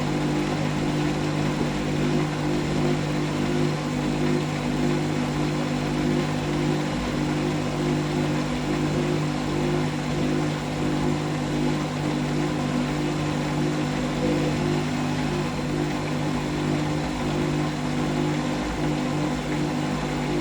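Hoover SIX Inter@ct AAA Whisper 1600 (AAA160) washing machine running mid-cycle with a steady hum.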